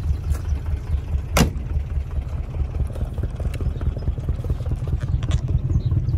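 Jowett Jupiter's flat-four engine idling steadily, a low, evenly pulsing throb, with one sharp click about a second and a half in.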